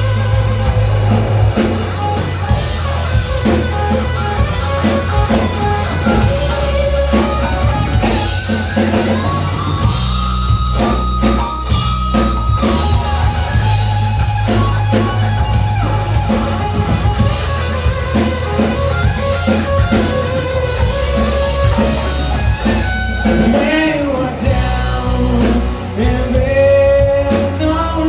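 Live rock band playing an instrumental passage: a guitar carries a lead line with bent notes over a heavy low end and drum kit.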